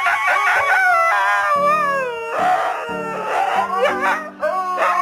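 A dog howling in a string of wavering calls that slide up and down in pitch, with background music.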